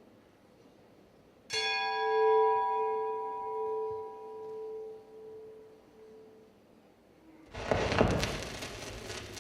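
A single bell-like chime, struck once about a second and a half in and ringing out for several seconds as it fades. A loud burst of noise comes in near the end.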